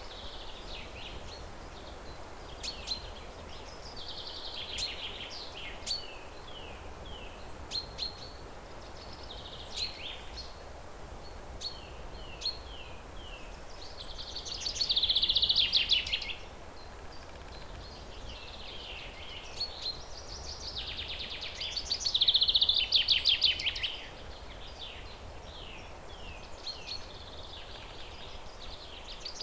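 Songbirds singing: repeated phrases of quick chirps and short falling notes, with two louder rapid trills about halfway and about three quarters of the way through, over a steady low background hiss.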